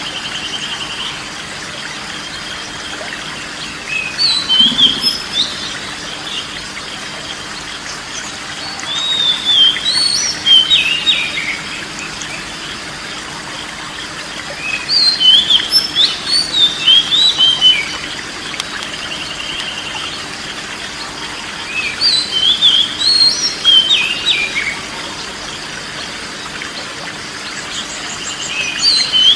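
Oriental magpie-robin (kacer) song: bursts of quick, sliding whistled phrases that come back about every six seconds, four times. Between the bursts a faint steady trill and a low hum carry on.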